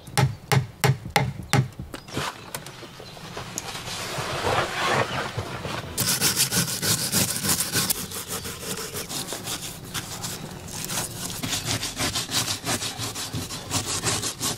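Hand saw cutting through a wooden stick in back-and-forth strokes, with a few separate strokes at first and fast, steady strokes from about six seconds in.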